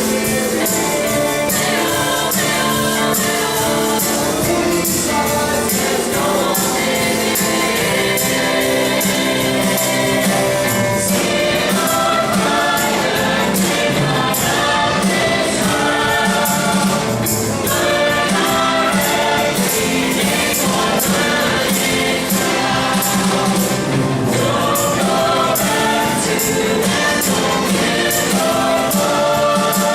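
A vocal group singing a song together over musical accompaniment with a steady beat.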